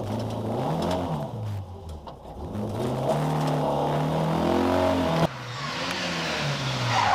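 Ford Escort Mk2 rally car engine revving hard under acceleration, heard inside the cabin, its pitch climbing and dropping with the gear changes. About five seconds in it cuts abruptly to the car's engine heard from the roadside as it comes closer.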